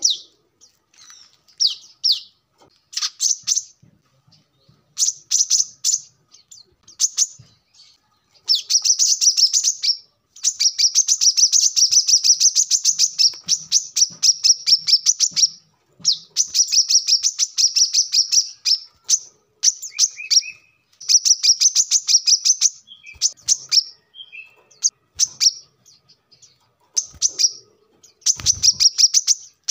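Brown-throated sunbird (kolibri kelapa) singing: rapid, high-pitched ticking trills, in long runs of several seconds through the middle with shorter bursts between. A brief low thump comes near the end.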